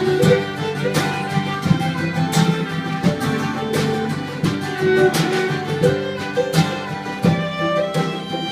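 Instrumental break of an acoustic folk song: picked acoustic guitar with fiddle playing over it, without vocals.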